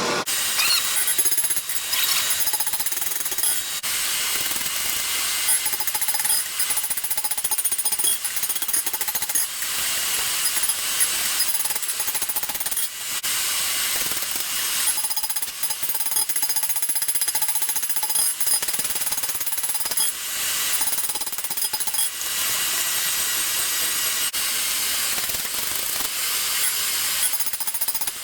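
Rapid, continuous hammering of hot steel as a bearded axe head is forged, with a few brief breaks.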